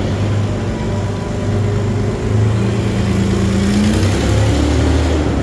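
A motor or engine running steadily with a low hum, one tone rising slightly in pitch about three to four seconds in.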